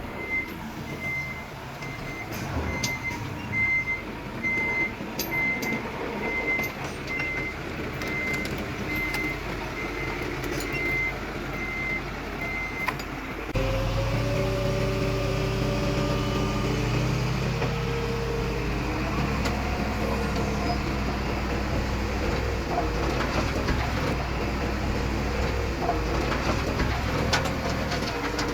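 Reversing alarm beeping about once a second over the diesel engine of heavy earthmoving machinery. About halfway through, the sound cuts to a louder diesel engine working under load, its pitch rising and falling.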